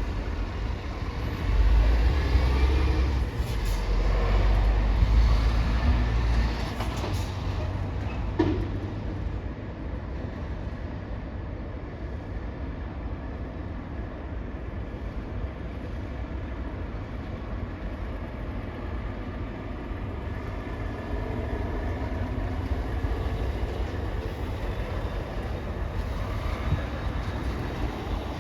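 Heavy vehicles moving through a ferry port: a deep engine and tyre rumble swells for a few seconds, then settles into a steady background drone. A single sharp metallic knock comes about eight seconds in.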